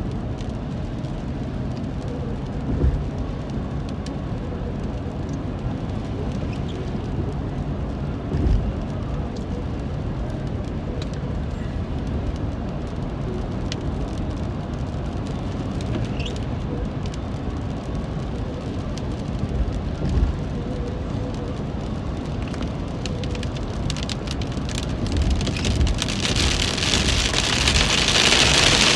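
Rain on a moving car over a steady low rumble, with a few dull thumps; about three-quarters of the way through the rain turns much heavier and louder.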